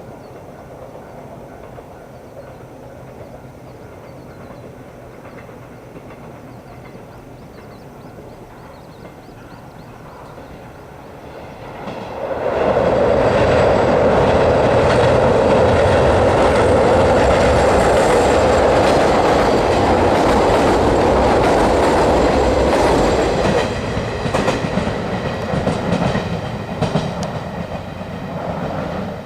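A JR 113 series electric train passes close by. After a quiet wait it arrives about twelve seconds in with a loud, steady rumble. Near the end its wheels clack rhythmically over the rail joints as it moves away.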